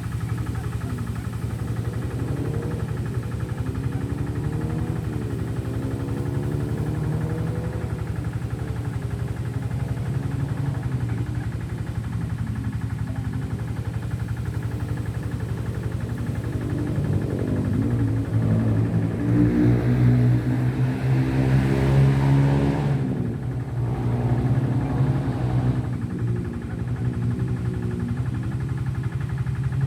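A motor engine running steadily with a wavering pitch. It grows louder and revs higher a little past the middle, then drops back to its earlier level.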